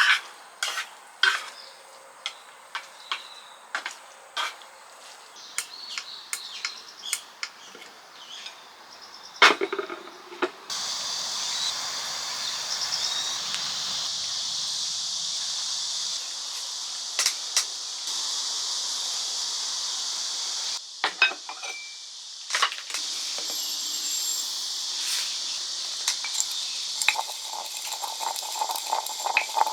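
Light clinks and taps of cutlery and dishes. About ten seconds in, a steady hiss starts abruptly and carries on, with a short break a little after the middle and scattered clicks over it near the end.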